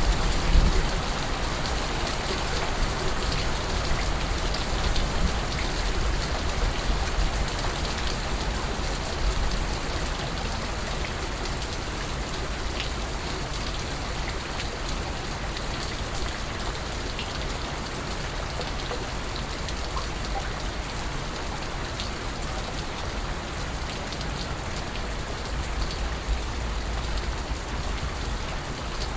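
Steady rain falling, with scattered single drops ticking through the hiss.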